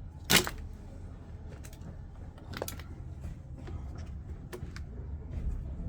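Hard knocks and clicks from washing machine drain pumps being handled and set down: one sharp knock just after the start, then a few fainter clicks, over a low steady hum.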